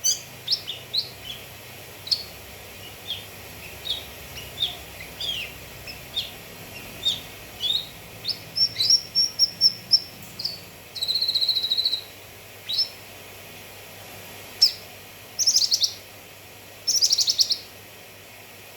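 Cucak kinoi song: a string of short, sharp chirps and whistled notes, broken by rapid trilled phrases about a second long and two buzzy trills near the end.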